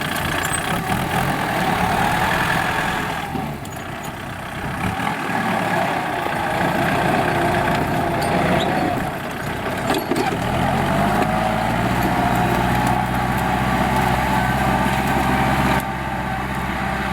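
Kubota L4708SP tractor's diesel engine running, with a steady whine above the engine note. About ten seconds in, the engine note comes through more clearly, rising slightly and then holding steady.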